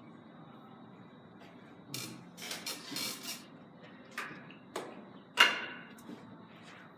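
Carom billiard balls being struck and colliding: a few sharp clicks about four and five seconds in, then the loudest click with a short ring about five and a half seconds in. A scratchy rustle comes a couple of seconds before them.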